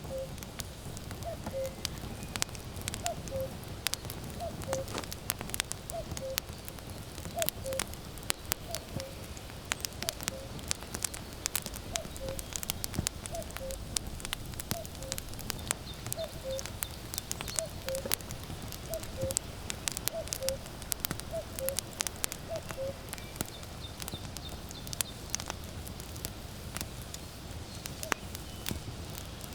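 Burning firewood crackling and popping in sharp clicks over a low rumble of the fire. A common cuckoo calls its two-note cuck-oo, the second note lower, over and over about once a second, stopping a few seconds before the end.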